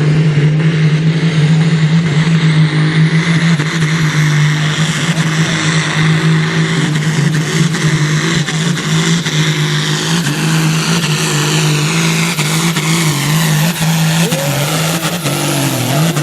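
Competition pulling tractor's engine running hard at high revs, a steady low drone under a high whine that climbs over the first few seconds and slides down again near the end.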